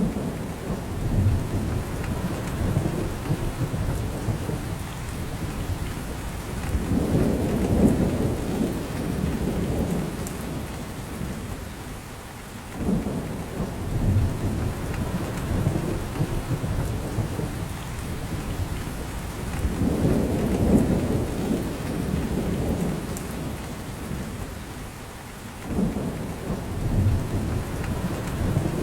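Steady rain falling in a spruce forest, with drops coming off the branches. Under it are low rumbling swells that build and fade about every six or seven seconds.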